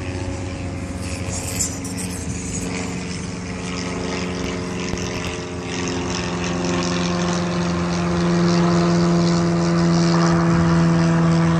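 A steady engine drone, one low hum with several higher tones over it, growing louder about two-thirds of the way in.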